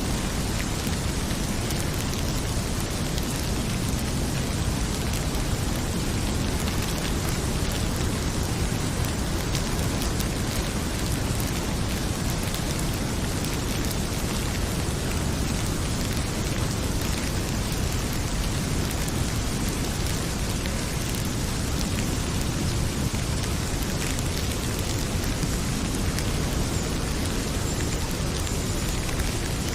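Heavy rain pouring steadily, with a wood fire crackling in a fireplace now and then.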